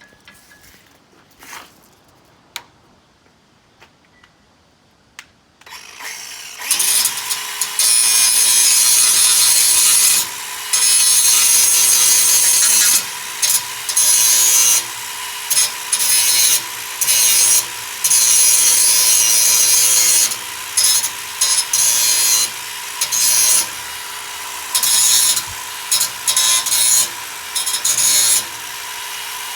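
A few light clicks, then about six seconds in a grinder spins up and grinds down the fresh weld on a cracked distributor bracket, the harsh grinding cutting in and out in short passes over the motor's steady whine.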